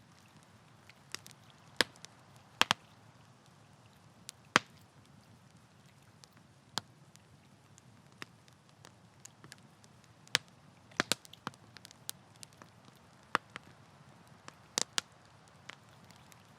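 Campfire crackling: burning wood giving irregular sharp pops and snaps, some louder and some faint, over a low steady background hiss.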